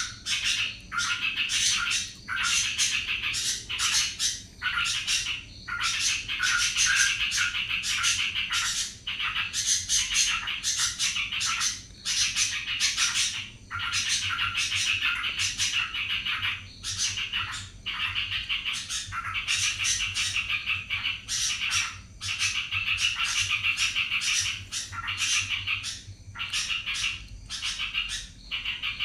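Yellow-vented bulbul (trucukan) singing 'ropel': fast, unbroken chattering phrases, each a second or two long, with only brief breaks between them.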